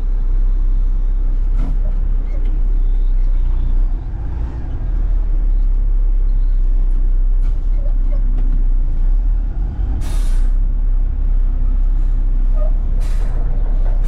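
Front-load garbage truck's diesel engine running with a heavy, steady low rumble. Short sharp hisses of air from the truck's air brakes break in about ten seconds in and again near the end.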